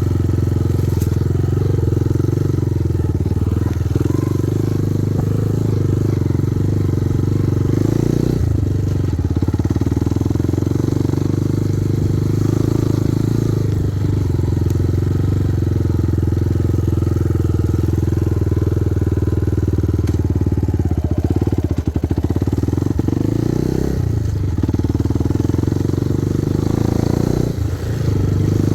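Kovi Advance 250 enduro motorcycle engine running steadily under way, with the throttle briefly eased and opened again a few times.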